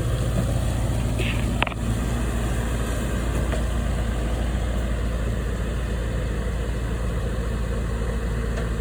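An engine idling steadily with a low, even hum, and a single short click about two seconds in.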